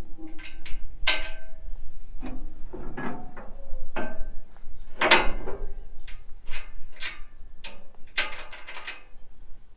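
Irregular metallic clicks and clanks, about a dozen over several seconds, several of them with a short metallic ring.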